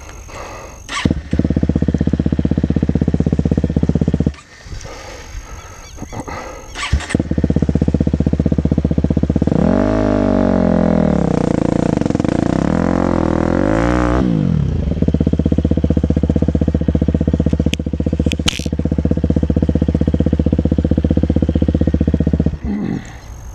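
KTM 250 SX-F four-stroke single-cylinder motocross engine running loud and steady, with a dip in level about four seconds in. Its revs rise and fall for several seconds in the middle, then it runs steady again and drops away near the end.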